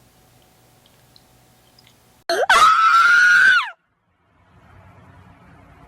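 A person screaming: one loud, high-pitched scream lasting about a second and a half, starting a little over two seconds in, rising at the start and falling away at the end.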